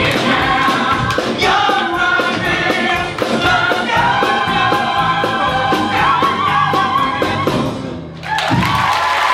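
A chorus of singers with a live band, on a steady beat, building to the end of a show tune. The music breaks off about eight seconds in, then a final held chord rings out as audience applause begins.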